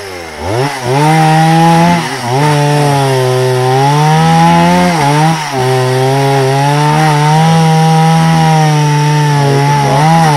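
Chainsaw revving up and running at high speed, its pitch dipping briefly about two and five seconds in and again near the end as it takes the load of cutting through a log.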